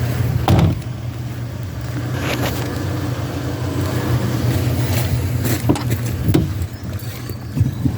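A vehicle engine running steadily, with several short knocks and clatters about half a second, two and a half, five, five and a half and six seconds in.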